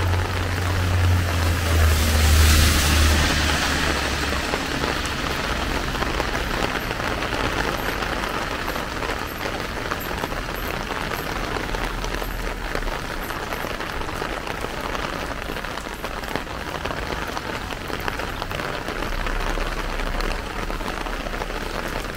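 Steady rain falling on a plastic umbrella overhead and on the wet paved street. In the first few seconds a low rumble with a hiss swells and fades away.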